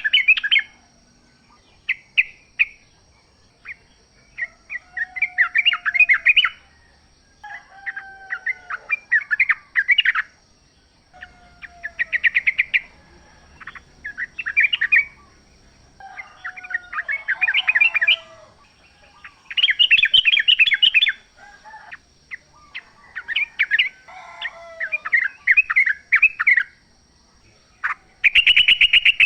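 Yellow-vented bulbul (trucukan) singing: short bubbly chattering phrases repeated every couple of seconds, some with a lower sliding whistle beneath them.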